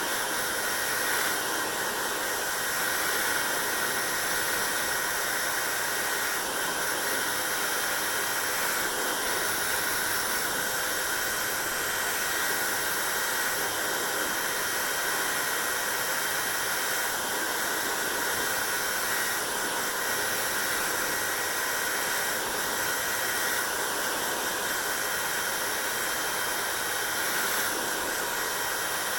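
Hair dryer running steadily: an even blowing hiss with a faint high whine running through it.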